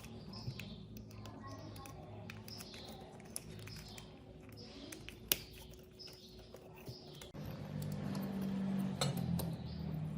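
Light metallic clinks and taps of small tools and metal parts being handled. About seven seconds in, a steady low hum starts under them.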